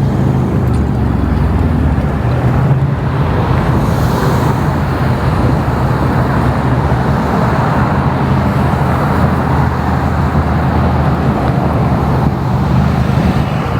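Steady road traffic noise with the low hum of a running vehicle engine.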